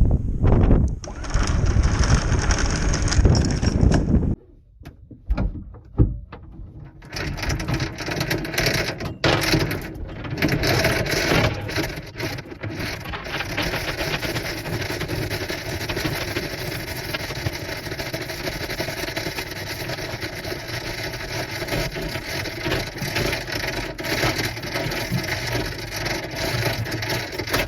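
Anchor chain being hauled out of a boat's chain locker, the links clattering and rattling. It is loud and sharp for the first few seconds, drops away briefly, then about seven seconds in becomes a steady, continuous rattle.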